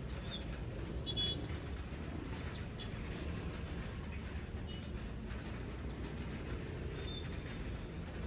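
A few short, high bird chirps, the clearest about a second in, over a steady low rumble.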